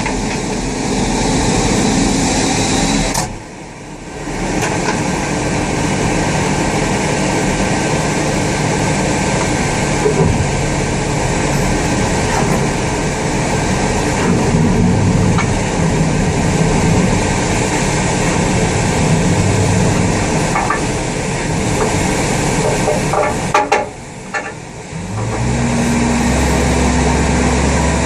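Loud, steady engine and machinery noise from an Airbus A380 pushback, the tug and the aircraft together. It dips briefly twice, and a deeper steady engine hum comes in near the end.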